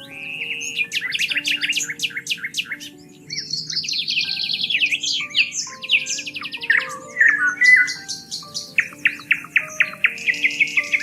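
Several songbirds singing and chirping, with rapid trills and runs of quick repeated notes overlapping, over soft background music of slow held notes.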